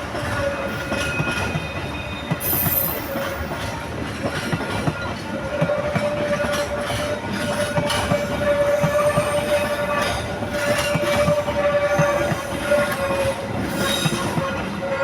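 Long train rolling past, its wheels clattering over the rail joints, with a steady high tone held throughout.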